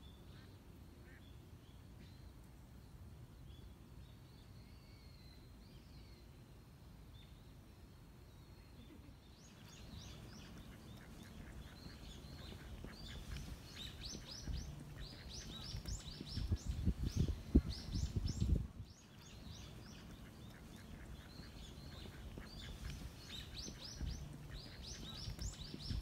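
Birds calling: a few faint chirps at first, then from about ten seconds in a dense run of rapid, high chirping calls that carries on to the end. Low rumbling thumps build beneath the calls and are loudest just before a sudden drop about two-thirds of the way through.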